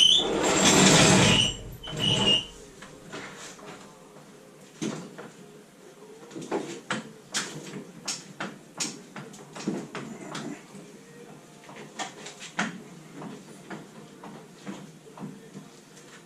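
Workshop work on a classic Mini: a loud scraping, sliding noise with a high squeak for about the first two seconds, then a long run of scattered sharp clicks and knocks from hand tools and metal parts.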